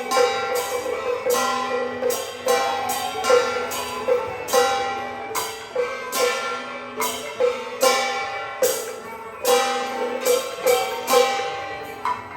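Taiwanese beiguan ensemble playing Fulu opera music: a held, pitched melody over frequent strikes of cymbals and gongs, roughly two a second, whose ringing lingers after each hit.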